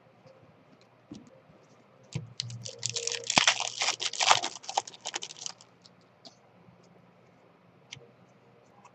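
Foil trading-card pack wrapper being torn open and handled: about three seconds of dense crinkling and crackling starting about two seconds in, with scattered light clicks before and after.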